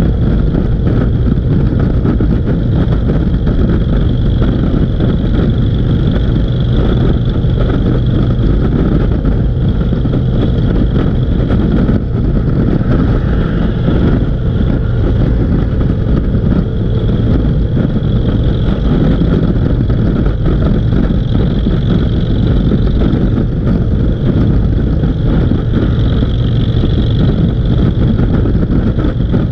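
Motorcycle engines running steadily on the move, with wind noise.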